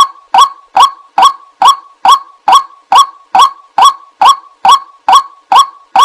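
White-breasted waterhen's call repeated over and over at an even pace of about two and a half calls a second, each a short, loud honking note, played as a lure to draw the birds in.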